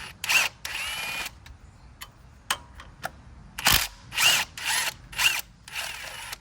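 Handheld power tool on a socket, run in about seven short bursts with a whining motor: two near the start and a quick run of five over the last three seconds. It is working at an engine mount bolt that is not coming loose.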